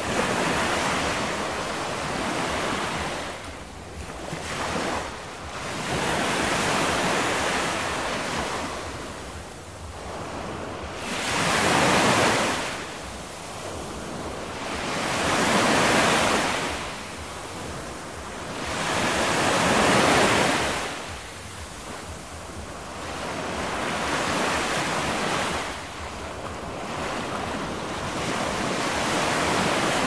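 Ocean surf: a rushing wash of waves that swells and fades every few seconds.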